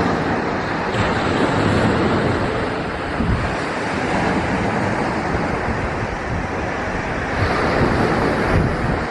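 Waves breaking on a shingle beach in a steady wash, with rain and some rumbling on the microphone.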